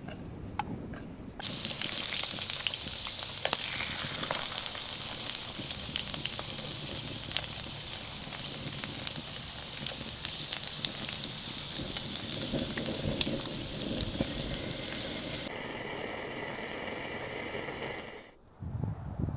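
Food frying in a hot pan: a dense, crackling sizzle that starts suddenly about a second in, then changes character near the end.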